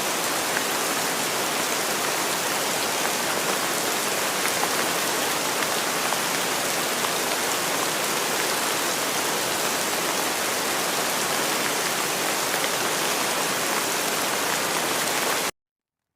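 Rain falling steadily, a dense even hiss with fine drop ticks, that cuts off abruptly about a second before the end.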